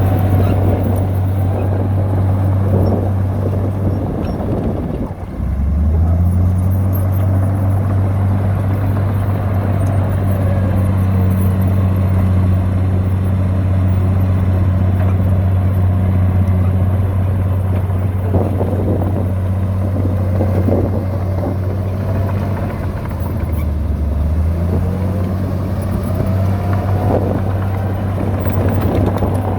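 Heavy diesel earthmoving machine running steadily under load. Its engine note drops briefly about five seconds in and again later before picking back up, with fainter rising and falling whines above it.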